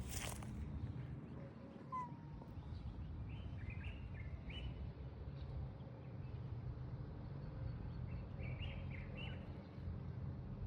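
Small birds chirping in two short clusters of high, quick notes, one early and one near the end, over a steady low rumble of background noise.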